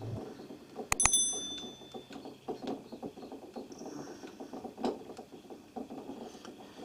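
Two sharp metal-on-metal taps about a second in, the second one ringing briefly like a small bell, then light knocks and handling sounds as a workpiece is set level in a milling machine vise.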